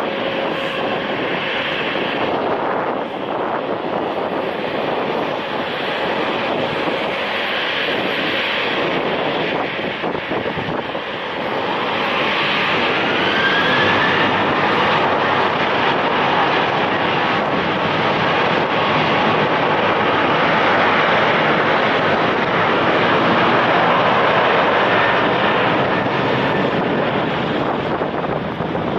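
Airliner engines at takeoff power during a rolling takeoff: a steady rushing noise, with a whine rising in pitch about twelve seconds in and the sound growing louder through the second half.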